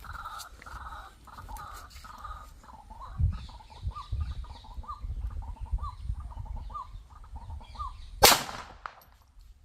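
Birds calling in short, repeated notes about twice a second, then a single sharp shot from a High Standard .22 pistol about eight seconds in, ringing briefly after.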